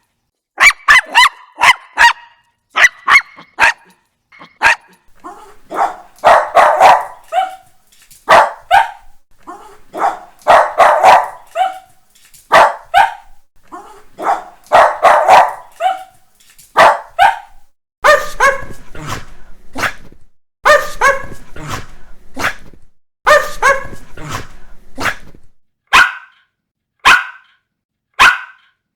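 Small dogs barking: a run of different short, high-pitched bark recordings one after another. Quick volleys of yaps give way to fuller clustered barking, then single sharp barks about once a second near the end.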